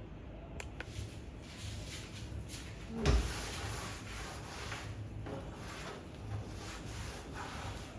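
Microwave parts being handled and wiped with a soapy cloth: scattered rubbing and clattering, with one louder knock about three seconds in.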